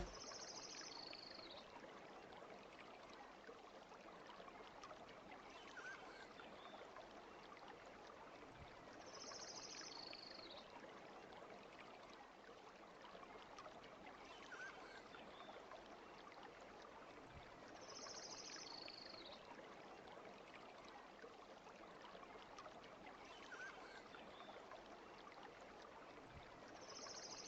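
Faint steady noise, with a short high chirp coming back in a regular pattern every few seconds.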